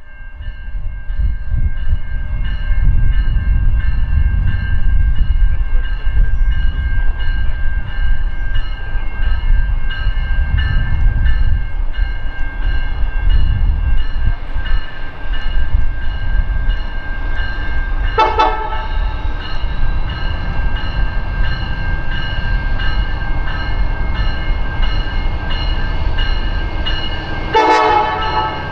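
Diesel locomotives rumbling heavily and steadily, with two short train-horn blasts, one about two-thirds through and one near the end.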